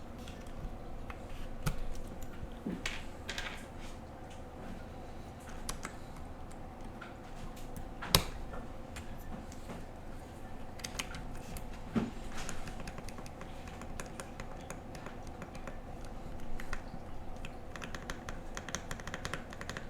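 Spacebar of a Monka 3067 mechanical keyboard fitted with a KTT Coconut Latte switch, pressed over and over: scattered keystroke clacks, with two sharper, louder strikes in the middle.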